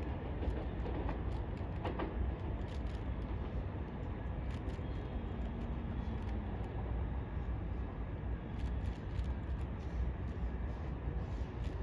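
A 700 Series 7000 Shinkansen pulling away into the distance, heard as a low, steady rumble that eases over the first few seconds and leaves a low background rumble.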